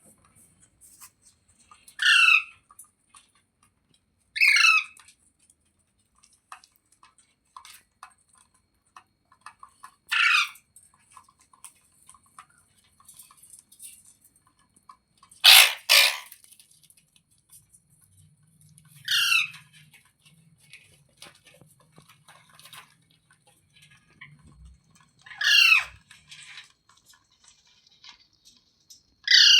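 A green ringneck parrot giving short, harsh squawks, about seven single calls a few seconds apart. Each call wavers up and down in pitch, and the loudest comes about halfway through.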